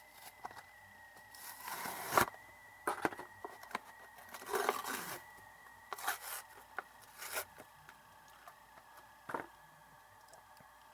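Toy-train packaging being opened by hand: scattered clicks and light scrapes, broken by a handful of short tearing and rustling bursts.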